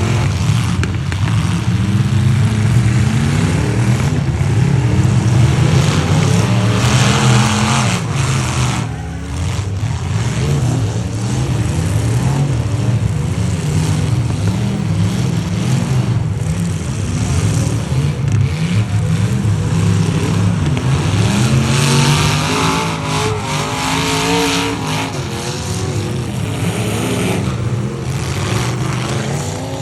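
Demolition derby trucks' engines running hard and revving, their pitch rising and falling again and again.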